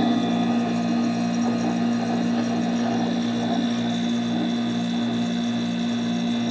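Fedders window air conditioner's Rotorex rotary compressor running steadily, a low hum with a pulsing beat about twice a second.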